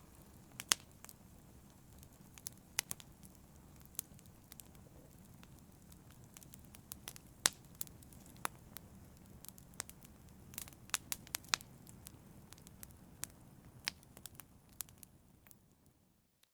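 Fire crackling: irregular sharp pops and snaps over a low steady rumble, busiest between about 10 and 12 seconds in. The sound fades out about a second before the end.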